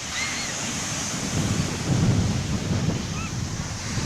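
Wind buffeting the microphone over breaking surf on a beach, a rumbling rush that swells in the middle. Two brief high calls come through, one at the very start and one about three seconds in.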